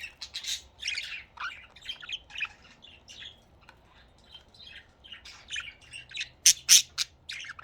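Budgerigars chattering in a string of short, high chirps and squawks, loudest in a pair of sharp calls near the end.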